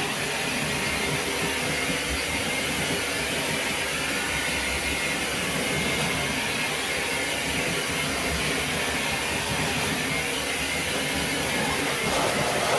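Dog-grooming blow dryer running steadily, a loud even rush of air with a faint high whine, drying a wet Yorkshire Terrier's coat.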